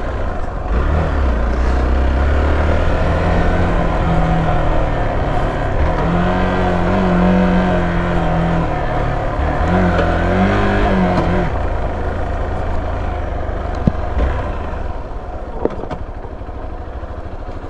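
Hero XPulse motorcycle's single-cylinder engine running under way off-road, a steady low rumble with the engine note revving up and easing off twice around the middle. A few short sharp knocks come near the end.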